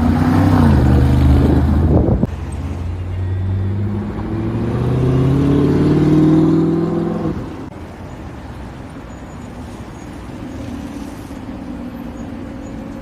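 Engine sounds of three supercars in turn on a city street: a Mercedes-AMG G63's V8 loud for about two seconds with its pitch falling, then, after a sudden cut, an Audi R8 accelerating with its engine note climbing for about five seconds, then an Aston Martin DB11 running more quietly and steadily.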